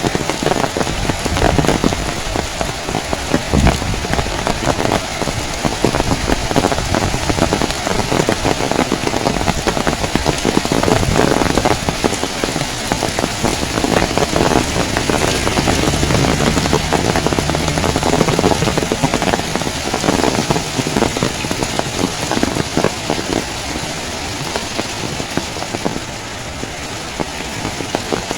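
Heavy rain pouring down, a dense steady hiss with countless drops striking hard surfaces close by. A low steady hum joins in for a few seconds around the middle.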